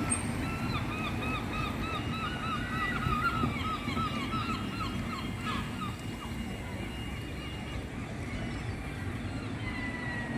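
Gulls calling in a rapid series of short, arched yelps, several a second, for the first five seconds or so, then dying away, over a steady low background rumble.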